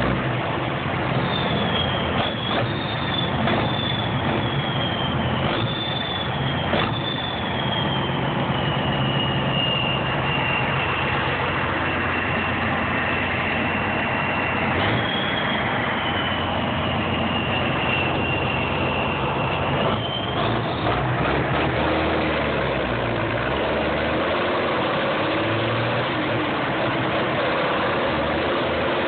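M35A2 deuce-and-a-half truck's turbocharged multifuel engine running, with the high whistle of its turbocharger over the engine note. The whistle's pitch falls and rises with engine speed, and it stops about two-thirds of the way through while the engine keeps running.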